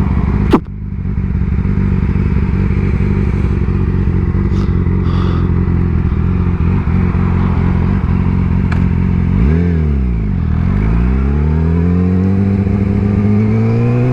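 Sport motorcycle engine running at a steady cruise under wind noise, with one sharp click about half a second in. Near the ten-second mark the engine note dips and recovers, as in a gear change, then rises steadily as the bike accelerates.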